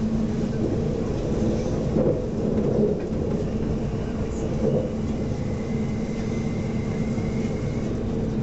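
Steady rumble of a moving SNCF passenger train heard from inside the carriage: wheels running on the track with a constant low hum. A faint thin whistle comes in about halfway through and fades near the end.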